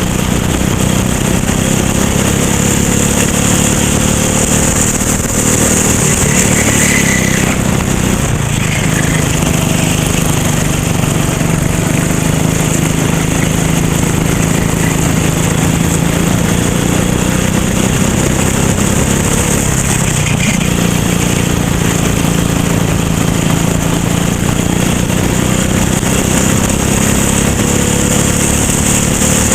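Racing kart engine running hard and steadily, its pitch slowly sinking and climbing again as it is driven around the track, with a steady hiss over it.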